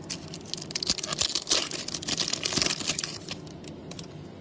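Crinkling and rustling of trading-card packaging and cards being handled: a dense run of small crackles, loudest in the middle, dying away after about three seconds.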